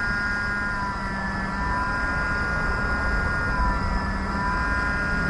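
Steady electric hum of workbench equipment, a fan-like rush with a constant high whine of several tones over it.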